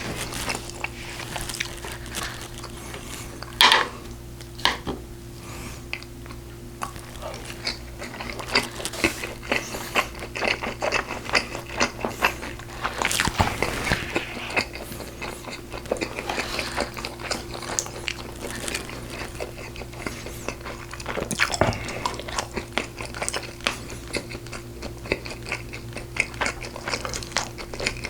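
Close-miked eating: wet chewing, smacking and biting into braised pork ribs, with many small clicks and a louder knock about four seconds in. A faint steady hum runs underneath.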